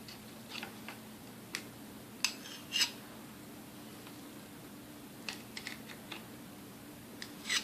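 Scattered light clicks and clinks of small metal parts and tools being handled while a Sunbeam Mixmaster Model 12 mixer is taken apart, with a few louder knocks about two seconds in, around three seconds in, and near the end.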